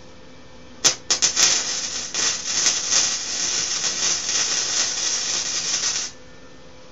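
Electric arc welder striking an arc after a few stuttering starts, then laying a steady crackling, sizzling bead for about five seconds before the arc is broken sharply.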